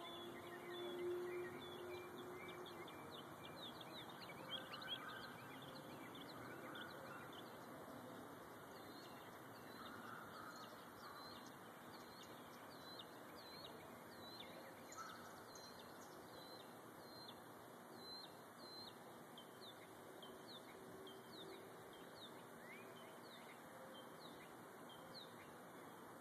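Faint songbirds chirping: many short, high calls in quick succession.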